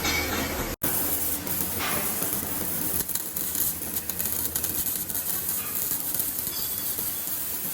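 Electric arc welding: the arc crackling and hissing steadily, with a short break in the sound just under a second in.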